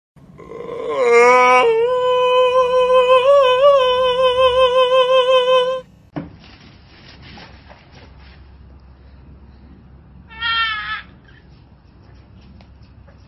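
An animal's long call, held at one pitch with a slight wobble for about five seconds and stopping abruptly, followed a few seconds later by one short rising call.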